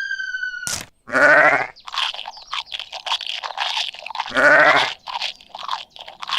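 Two wavering, bleat-like calls about three seconds apart, with crunching, chewing-like noises between and after them. Before the first call, a falling whistle tone ends with a click under a second in.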